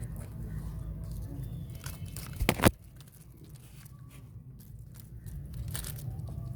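A loud knock about two and a half seconds in, with scattered lighter clicks over a steady low hum.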